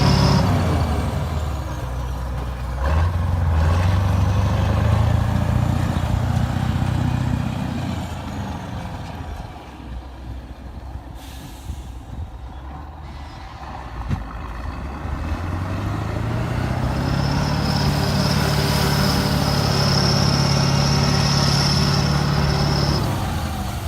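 Kirovets tractor's diesel engine working under load while ploughing snow. It revs up about three seconds in and fades after about eight seconds, then builds again from about sixteen seconds with a high whine over the engine note.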